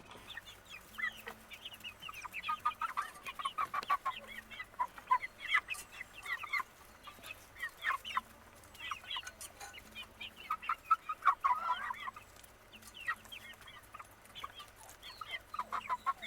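A flock of young chickens cheeping and clucking: many short chirps in busy flurries, with brief lulls between them.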